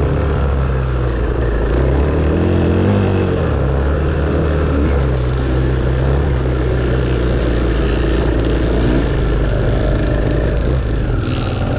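Dirt bike engine running under throttle, its pitch rising and falling repeatedly as revs go up and down. A brief hiss is heard near the end.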